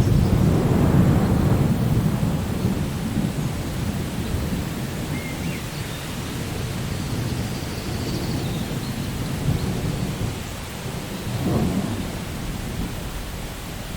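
Steady rain with rolling thunder rumbling low, loudest in the first two seconds and swelling again near the end.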